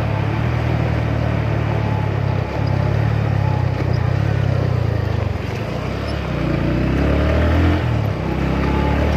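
Motorcycle engine running while riding, its pitch rising and falling, with brief drops in level about two and a half, five and a half and eight seconds in.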